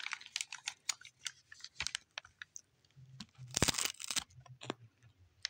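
A crisp rolled seaweed snack being bitten and chewed, giving irregular crunchy crackles with a denser burst of crunching about three and a half seconds in.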